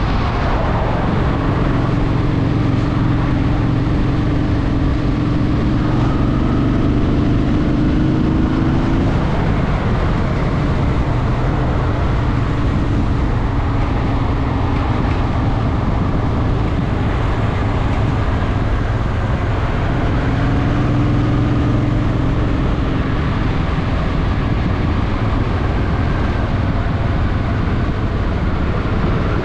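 Honda Shadow VT750's V-twin engine running while riding, with wind and road noise; its steady low note weakens about nine seconds in and strengthens again about twenty seconds in.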